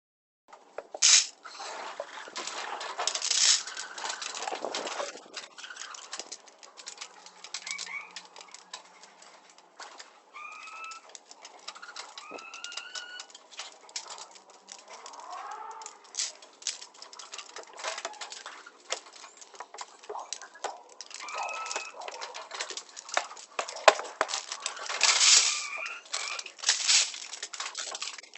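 Chickens and pigeons feeding: a dense clatter of quick pecking taps, with short rising chicken calls now and then.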